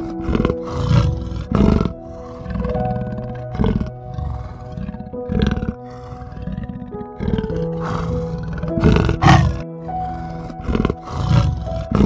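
A big cat growling in short, loud calls every second or two, over steady background music.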